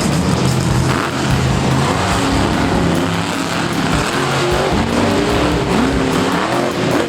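Monster truck engines running loudly, revving up with rising pitch near the end.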